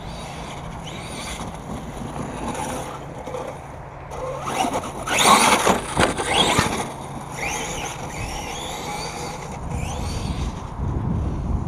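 1/5-scale Redcat Rampage MT V3 monster truck on 8S power running hard, its motor whining in repeated rising and falling sweeps as it speeds up and slows, with the tyres squealing and scrubbing. The loudest burst comes about five to seven seconds in.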